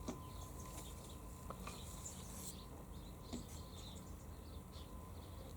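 Faint background ambience with a few soft clicks and scattered brief high chirps.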